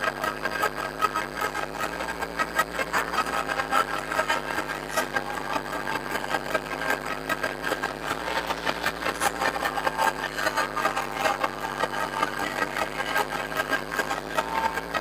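A competition car's engine running on the arena circuit, with dense irregular crackling and clatter over the engine note.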